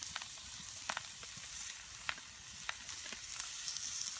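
Bacon sizzling on a hot plate over a campfire: a steady high hiss with sharp pops and crackles about once a second.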